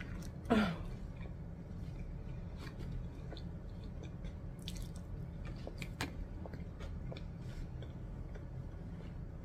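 A person chewing a mouthful of food close to the microphone, with soft wet clicks and squishes scattered throughout. About half a second in there is one brief, louder sound that falls in pitch.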